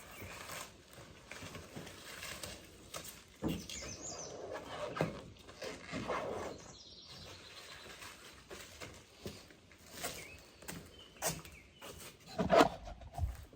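Plasti Dip rubber coating being peeled off a truck's paint by hand: irregular peeling, crinkling and rustling, with a louder crackle about a second before the end.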